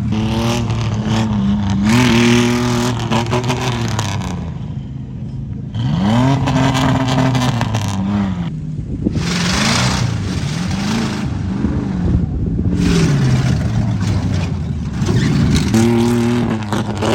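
Competition off-road truck's engine revving hard, the pitch climbing and dropping again and again as the throttle is worked, with bursts of rattling noise on top.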